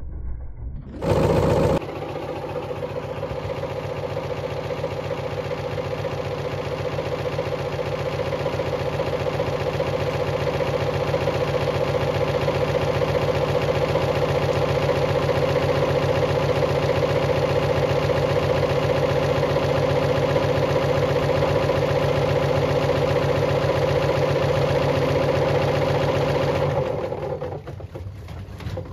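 Bosch washing machine running with a steady mechanical hum of constant pitch, after a brief loud burst about a second in; the hum dies away near the end.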